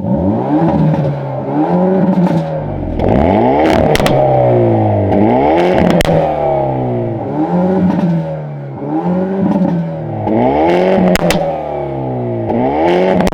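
Hyundai Veloster N's 2.0-litre turbocharged four-cylinder engine revved repeatedly in N mode, each blip rising and falling back, about one every second or so. Sharp pops and crackles from the exhaust come as the revs drop.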